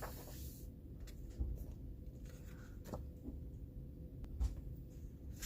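Soft paper rustling from the pages of a thick coloring book being handled, with a brief swish at the start and a few light taps and soft thumps.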